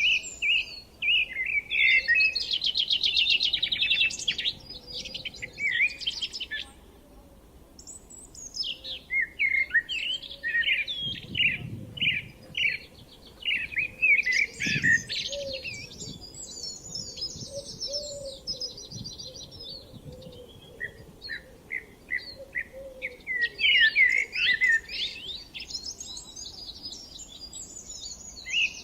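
Songbirds singing in a spring countryside chorus: overlapping phrases of quick chirps and rapid trills, with a short lull about seven seconds in.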